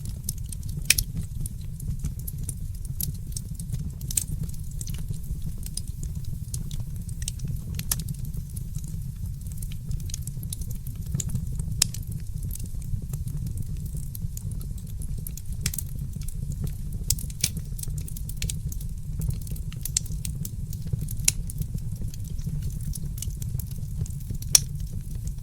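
Fireplace crackling: irregular sharp pops and snaps over a steady low rumble, with a louder pop about a second in and another near the end.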